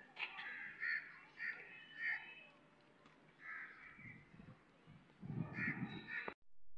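Birds calling outdoors: a run of short, harsh calls repeated several times in the first two seconds and again near the end. The sound cuts off abruptly just before the end.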